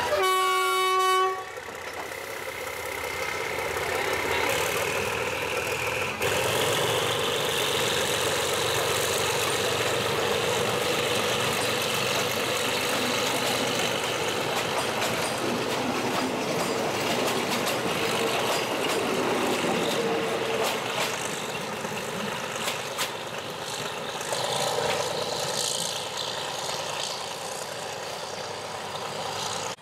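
A diesel train horn sounds one blast of about a second and a half. Then the coaches of a passenger train roll past close by, wheels clattering on the rails, with a high squeal that rises in pitch over several seconds.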